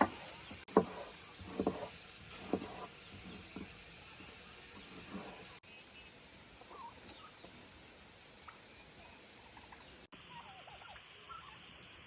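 Domestic turkey calling: a string of short calls about a second apart, then fainter scattered calls.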